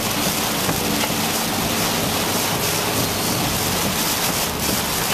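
Steady rushing noise of hurricane wind and rain, with wind buffeting the microphone.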